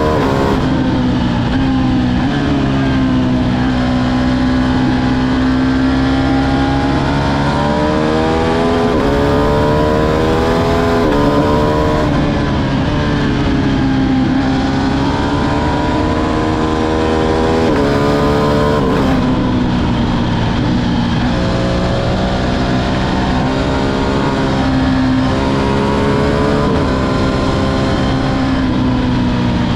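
Ducati Streetfighter V2's 955 cc L-twin engine under way, its revs climbing and falling several times, with sudden pitch jumps as it changes gear. A steady rushing noise runs under the engine.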